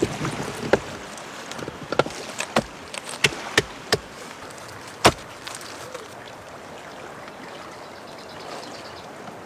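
A string of sharp, irregular knocks and clicks, the loudest about five seconds in, over a steady hiss; the knocks stop after about five seconds.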